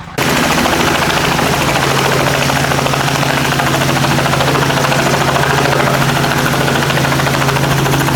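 Helicopter running close by: a loud, steady hum with rapid, even rotor-blade chopping and a rushing noise over it. It cuts in suddenly and holds steady throughout.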